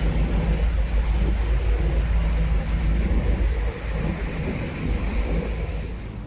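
Wind buffeting the microphone on a moving ferry, over the rumble of the boat and the water. The buffeting eases a little about two-thirds of the way through.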